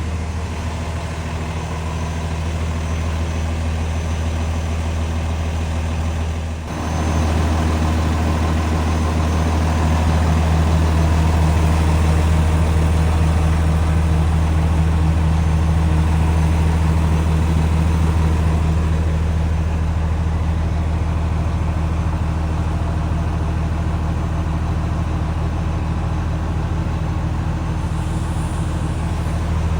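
The 8.9-litre PACCAR PX9 diesel of a 2014 Kenworth T370 dump truck idling steadily, with a brief dip about seven seconds in.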